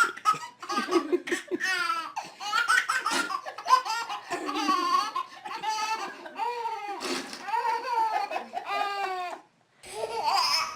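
A baby laughing in long runs of high-pitched giggles, breaking off for a moment near the end before more laughter.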